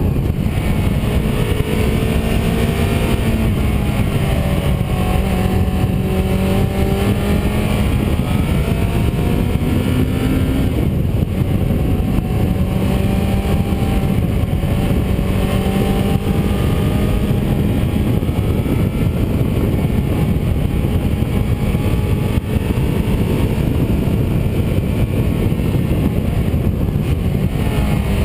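Car engine running under way with steady road and wind rumble. The engine note rises and falls gently with the throttle and climbs briefly about ten seconds in.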